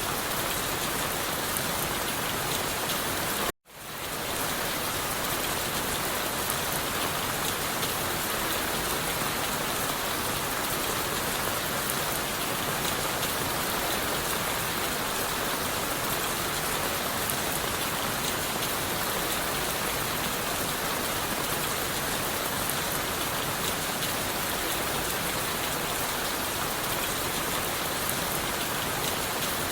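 Steady rain falling on forest leaves, wood and the forest floor, heard from inside a wooden shelter. About three and a half seconds in, the sound cuts out abruptly for an instant and fades straight back in.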